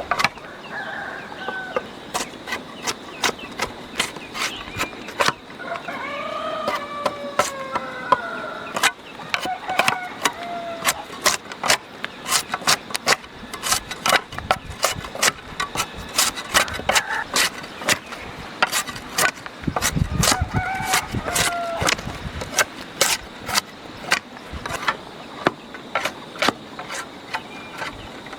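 Chickens clucking over a run of sharp, irregular knocks, a few each second.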